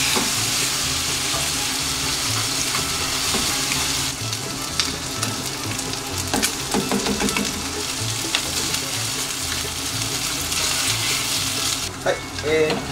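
Chicken breast pieces sizzling as they fry in mayonnaise in a non-stick frying pan, with short clicks of utensils against the pans partway through. The sizzle drops away near the end.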